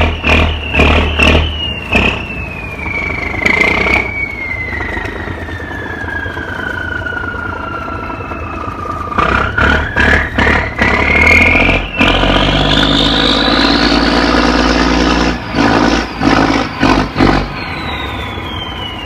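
Cummins diesel boat engine running and revving up and down during a tight turn, with a high whine that falls slowly, climbs again, then falls near the end. Three times the engine note comes in quick pulsing surges, near the start, about halfway through, and near the end.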